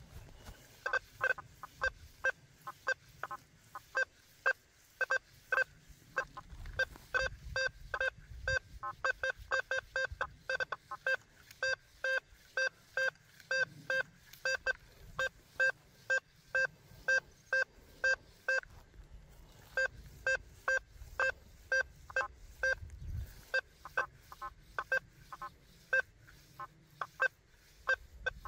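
Quest V80 metal detector giving short, repeated target beeps, several a second, as the 11-inch coil is swept over buried targets, with a faint low rumble underneath.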